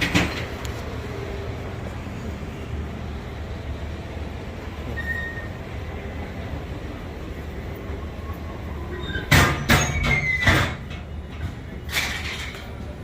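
A steady low rumble, with a quick cluster of sharp knocks about nine to ten and a half seconds in and one more near the end.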